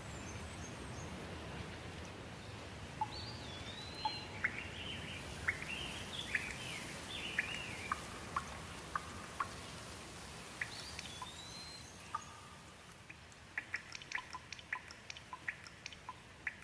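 Steady water noise with birds singing over it: a songbird's whistled phrases of rising and falling notes a few seconds in and again near the middle, then a quick run of short chirps near the end.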